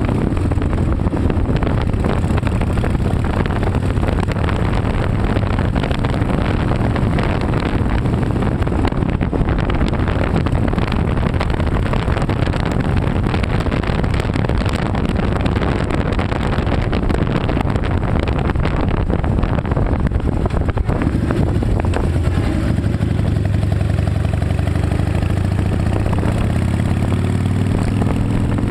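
Harley-Davidson Night Train V-twin motorcycle running under way, its engine mixed with rushing wind noise. Near the end the engine pitch climbs steadily as the bike accelerates.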